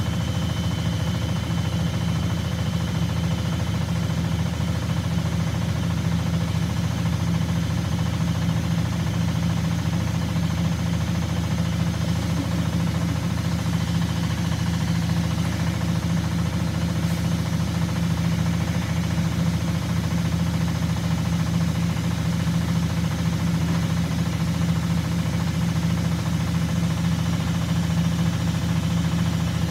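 Washing machine running with a steady low hum and vibration, unchanging throughout.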